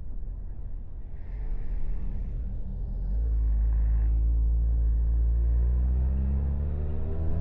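Low rumble, then about three seconds in a motorcycle engine comes up strong and steady, its pitch rising near the end as it accelerates.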